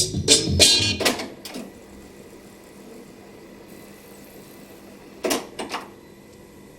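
Music playing from the JVC RC-M90 boombox's cassette deck stops about a second and a half in, leaving a faint steady hiss and hum. About five seconds in, two short mechanical clunks from the deck follow, half a second apart.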